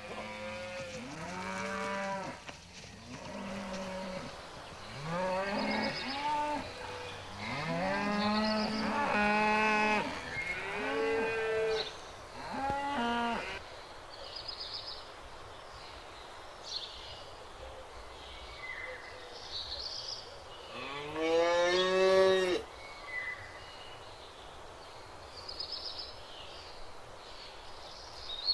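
Cattle mooing. In the first half several cows call one over another, in moos that bend up and down in pitch. After a quieter stretch, one long, loud moo comes about three quarters of the way through.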